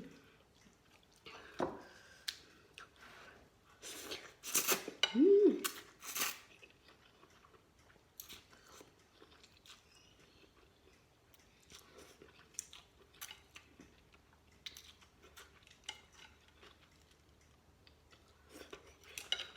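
A person eating pork noodle soup close to the microphone: chewing and mouth sounds, with a few louder noisy bursts about four to six seconds in, then quieter scattered clicks.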